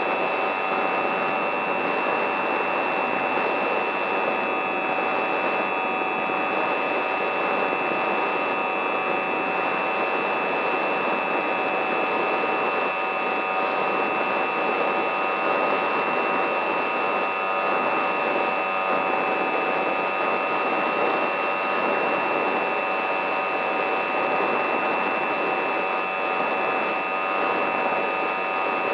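Radio-control aircraft's electric motor and propeller running at a steady whine under rushing air, holding one pitch throughout.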